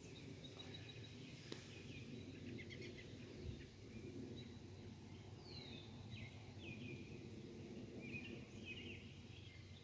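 Several songbirds singing and calling in short chirps and slurred whistles, one a clear falling whistle about halfway through, faint over a steady low background rumble.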